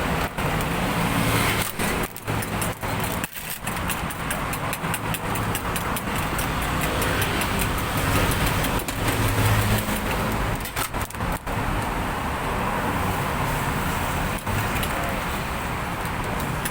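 Steady road traffic noise from passing cars, with a low hum and a few brief dropouts in the sound.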